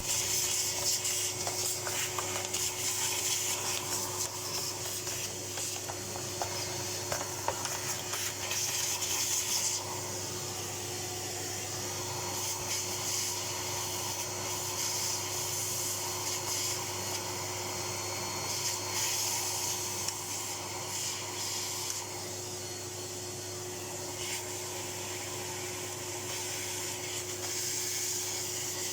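Vacuum cleaner running steadily, sucking the dirt out of a filthy vacuum cleaner, with a constant motor hum under a rushing hiss of air. The hiss is louder for the first ten seconds or so and then comes and goes as the nozzle moves.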